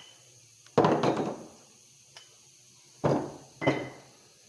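Three dull metal knocks, one about a second in and two close together around three seconds in, from work on a disassembled Gravely L crankshaft on the bench.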